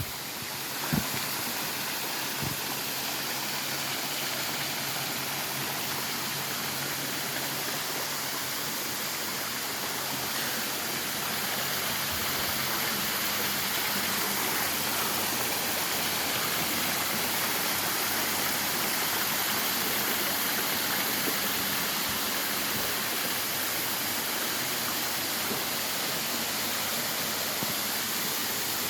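Steady rush of water from a waterfall, with a couple of short knocks in the first few seconds.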